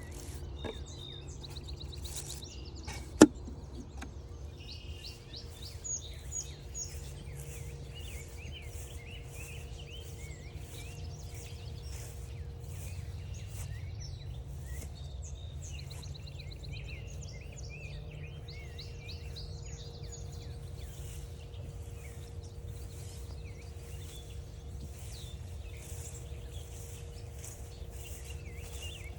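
Several small songbirds chirping and trilling over a steady low rumble, with one sharp, loud click about three seconds in.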